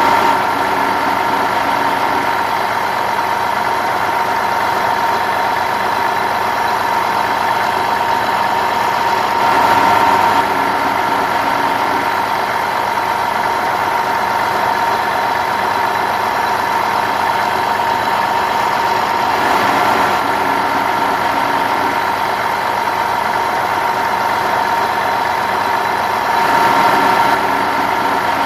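Steady engine idling, swelling briefly about every ten seconds.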